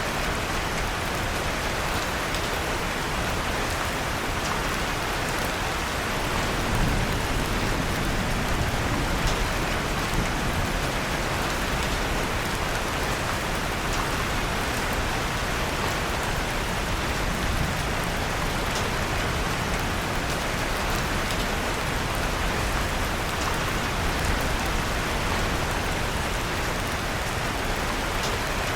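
Steady rain falling, with scattered small crackles and pops from a wood fire in a fireplace.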